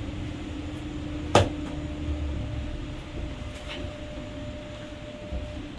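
Electric funicular railway car running, with a steady low hum and one sharp clunk about a second and a half in. A higher steady tone comes in partway through and stops shortly before the end.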